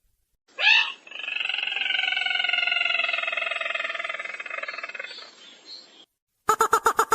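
Recorded lure call of the sintar merah, a rail-type bird. One sharp rising note, then one long rattling trill held about five seconds, drifting slightly lower and fading. A rapid series of clipped pulsed notes starts again near the end.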